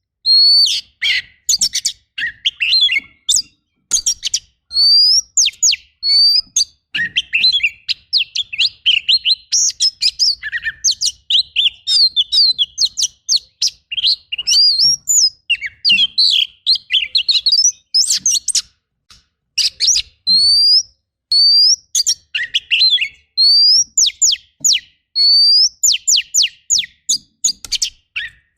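Oriental magpie-robin singing a fast, continuous song of repeated rising whistles mixed with harsh, rapid rattling notes and clicks.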